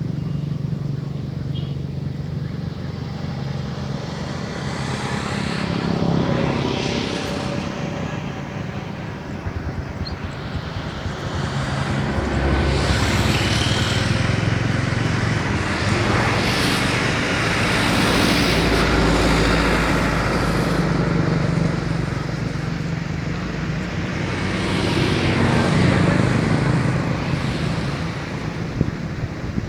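Rice combine harvester engine running steadily, its noise swelling louder and then easing off several times.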